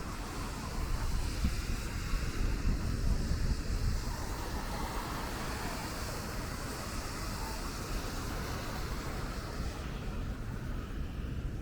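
Steady hiss of rain and traffic on wet city streets, with a low rumble underneath.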